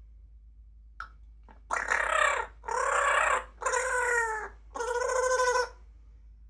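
Grey parrot making four drawn-out calls in a row, each arching up and then falling in pitch, after a faint click about a second in.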